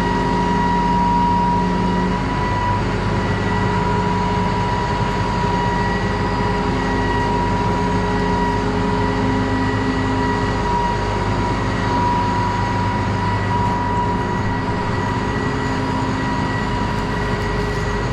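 A large farm vehicle's engine running steadily under way, with a constant high whine over the low drone.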